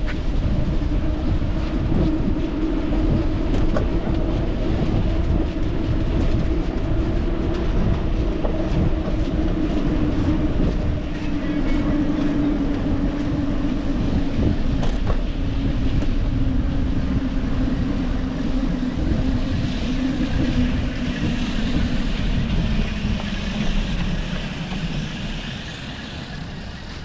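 Bicycle riding noise: a steady low rumble of wind on the microphone and tyres rolling on pavement, with a steady hum running underneath that fades near the end.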